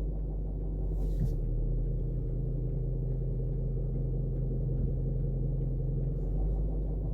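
Range Rover 4.4-litre TDV8 V8 diesel idling, heard from inside the cabin as a steady low hum. The steering is held hard at full lock, which silences the faint clicking the car otherwise makes in reverse.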